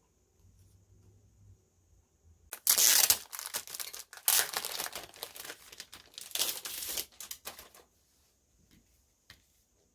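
Packaging being torn and crinkled by hand, in a run of scratchy noise that starts about two and a half seconds in and stops a little before the end, loudest near the start of the run.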